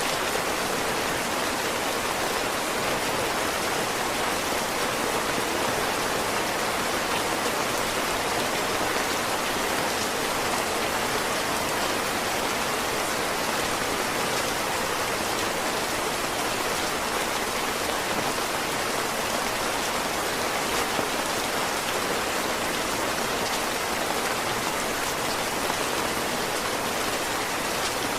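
Heavy rain falling steadily, a dense even hiss of drops with no breaks or changes.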